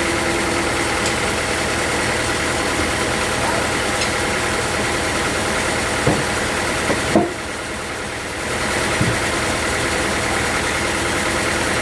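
Sawmill machinery running steadily, with a few knocks. About seven seconds in, the noise drops briefly and loses its hiss, then comes back.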